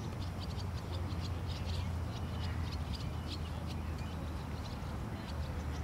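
Birds chirping in quick, short high notes, with a rapid trill at the start, over a steady low hum.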